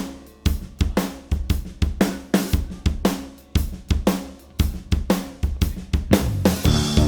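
A live rock band's drum kit playing a steady beat, with kick, snare and cymbal hits about two to three a second over low bass notes; near the end the guitars come in with sustained chords.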